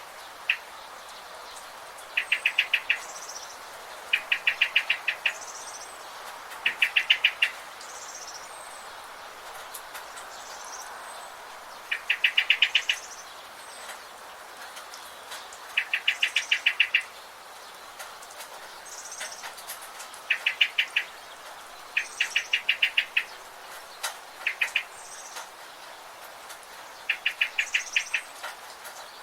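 Forest birds calling: a short, rapid trill of about ten clicks, repeated every couple of seconds, with thinner higher chirps between, over a steady background hiss.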